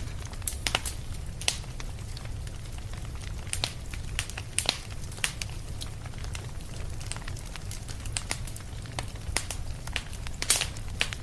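Wood fire crackling and popping, with sharp irregular snaps over a steady low rumble of flames.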